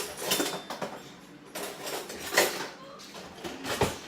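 Kitchen clatter of dishes and utensils being handled: a few separate knocks and clinks, the loudest about two and a half seconds in.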